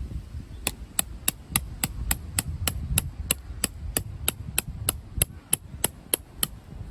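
A hammer driving a tent peg: about twenty sharp knocks, evenly paced at roughly three a second, over a low rumble.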